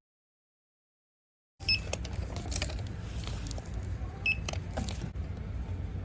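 Silence, then steady store background noise with two short high-pitched beeps from a checkout barcode scanner, about two and a half seconds apart, among a few light clicks and rustles.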